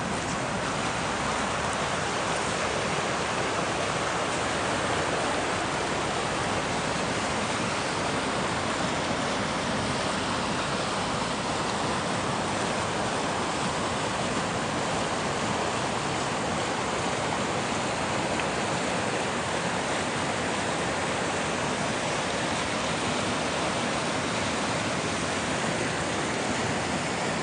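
A fast, swollen river rushing steadily: a dense, even roar of churning water.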